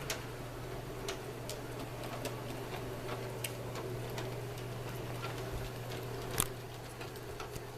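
Sesame Street toy train running on its track: a steady motor hum with irregular clicking about once or twice a second, and one louder click about six seconds in.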